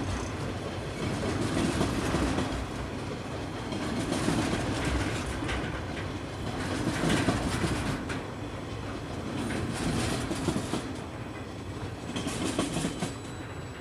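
Empty log wagons of a freight train rolling past, wheels clattering over the rail joints, the sound swelling and easing every two to three seconds.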